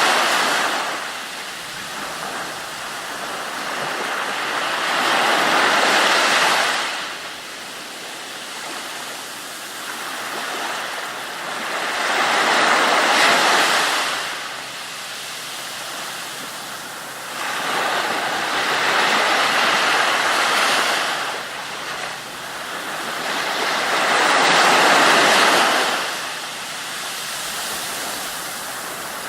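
Ocean waves surging onto a shore, a rushing wash that swells and falls back about every six seconds.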